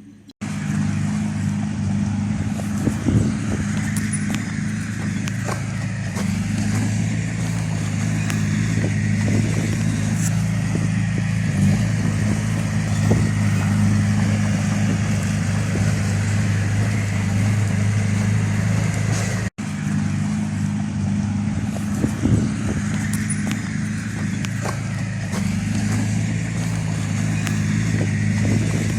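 Diesel engine of heavy earthmoving machinery running steadily under load, with scattered knocks and clanks. The sound drops out for an instant about two-thirds of the way through.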